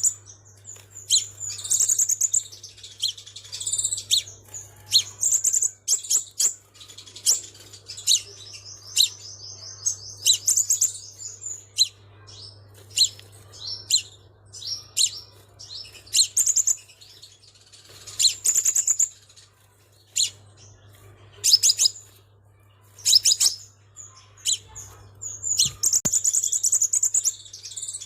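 Crimson sunbird calling: high, sharp chirps and short rapid trills in irregular bursts with brief pauses between them, over a faint steady low hum.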